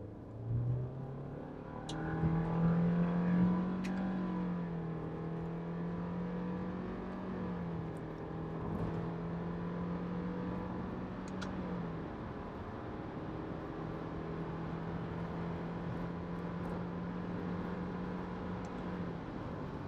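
Subaru Outback's 2.5-litre flat-four engine under hard acceleration. The note climbs over the first few seconds, then holds at a nearly steady pitch with slight dips around seven and twelve seconds.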